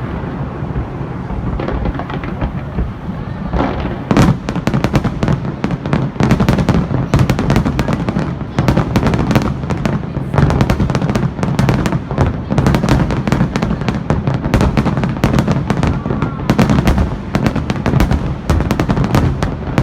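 Fireworks display: a rapid, dense barrage of bangs and crackling bursts that thickens about four seconds in, over a steady low rumble.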